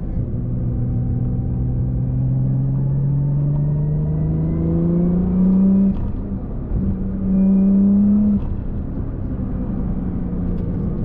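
Car engine pulling under acceleration, its note rising steadily for about six seconds, then dropping suddenly at a gear change. It climbs and holds again briefly, drops at another change a little past eight seconds in, then runs steady at cruise over road rumble.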